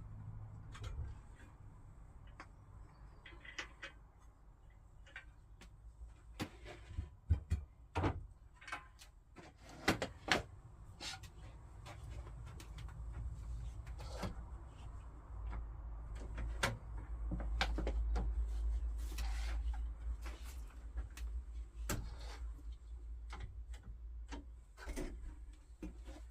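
Irregular knocks, taps and clatter of objects being handled and set down on a workbench, over a low rumble that swells for a few seconds past the middle.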